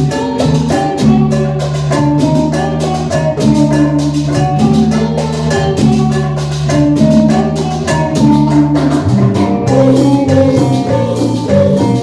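Live band playing an instrumental passage of a cumbia medley: a quick, even percussion beat over a bass line and a melodic lead, with no singing.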